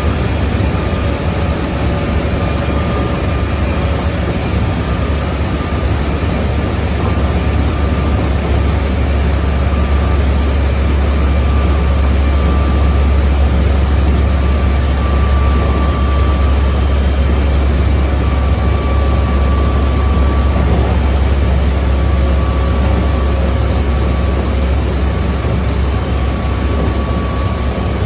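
Keikyu 600 series electric train running at speed, heard from inside the car: a steady low rumble of wheels on rail with faint, nearly level motor and inverter tones from its Mitsubishi GTO traction equipment.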